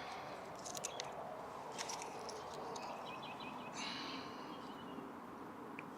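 Small, freshly lit campfire of tinder and kindling crackling with scattered pops, and a bird chirps briefly about four seconds in.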